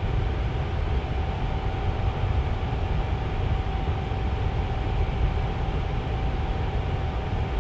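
Tower fan running steadily: a constant rushing of air with a low rumble and a faint steady hum.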